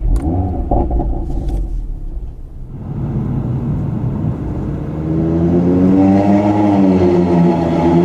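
Audi TT RS 2.5 TFSI turbocharged five-cylinder engine with its sport exhaust valves open, heard from inside the cabin. It runs with a low rumble and a few light clicks at first, then from about five seconds in it gets louder as the revs climb and ease back again.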